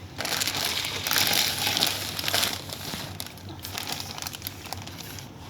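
Crinkling and rustling of something being handled or crumpled, loudest for the first two and a half seconds and then softer.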